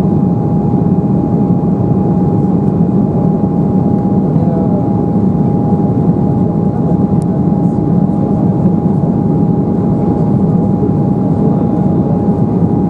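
Steady engine and airflow drone heard inside the cabin of an Embraer 190 airliner, with a constant high hum over it.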